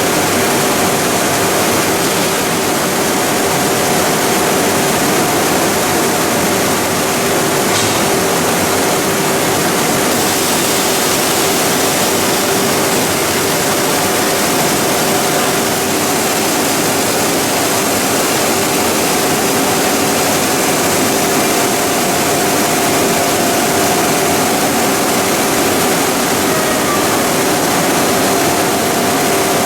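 Industrial plastic pelletizing line machinery for PE and calcium carbonate running steadily: a loud, even machine noise with a constant hum.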